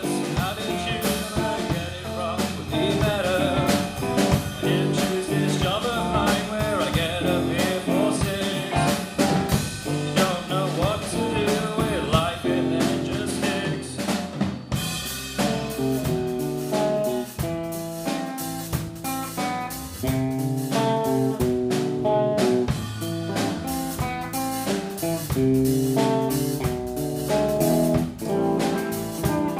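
Band playing a bluesy song on drum kit and guitar. About halfway through, the part changes from a wavering melodic line to short, clipped chords.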